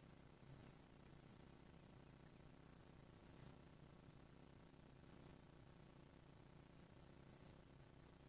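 A small bird calling faintly: short, high two-note chirps, each dropping in pitch, repeating about every two seconds over a quiet outdoor background.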